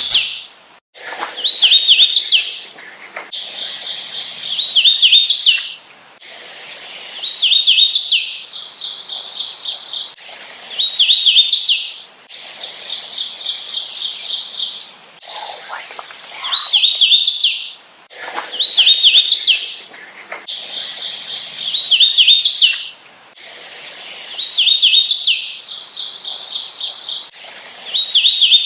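Hooded warbler singing its song over and over: a quick run of slurred, whistled notes that ends in a sharp upslurred note, about every two to three seconds. A rapid, even trill sounds between some of the songs.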